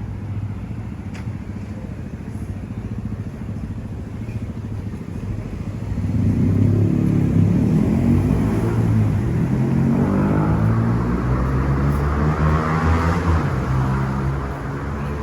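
Street traffic rumble, then about six seconds in a motor vehicle's engine grows loud and passes close, its pitch rising and falling as it revs, before fading near the end.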